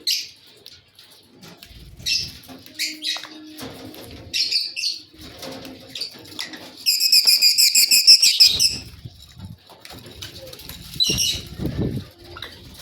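Fischer's lovebirds (lutino and albino mutations) giving short, sharp, high chirps, with a loud, rapid chattering trill lasting nearly two seconds midway. Wings flutter and rustle now and then between the calls.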